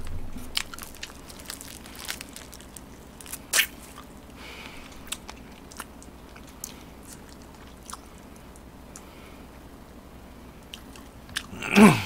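Close-miked chewing of crispy fried chicken: scattered small crunches and mouth clicks, with one louder crunch about three and a half seconds in. A short low voiced hum from the eater comes near the end.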